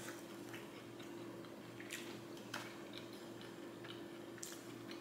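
A person chewing a mouthful of tempura-battered onion ring, quiet mouth sounds with a few soft clicks, one about two seconds in, one at two and a half and one near four and a half.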